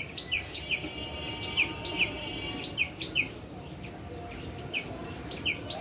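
A small bird chirping over and over: short high notes that drop in pitch, two or three a second, with a brief pause a little past the middle.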